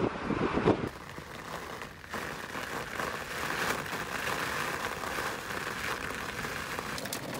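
Heavy rain falling hard, a steady dense crackling hiss of drops striking a surface. It follows about a second of wind buffeting on the microphone at the start.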